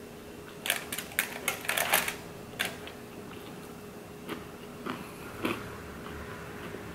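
Close-miked chewing of a bite of pizza topped with crunchy hot Cheetos: a quick run of crisp crunches in the first few seconds, then a few scattered mouth clicks and smacks as fingers are licked.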